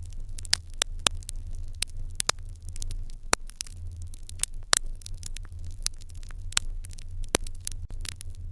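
Fire in an irori hearth crackling, with irregular sharp pops, several a second, over a steady low hum.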